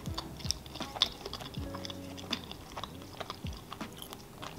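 Close-miked chewing and biting of a piece of tortilla, heard as many short, irregular mouth clicks.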